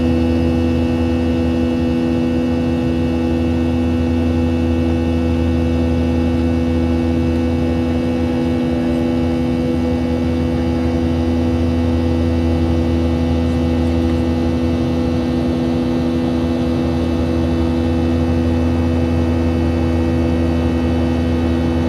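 Steady engine drone inside a Boeing 737-700's cabin: a low hum with a few unchanging engine tones over a rush of air noise.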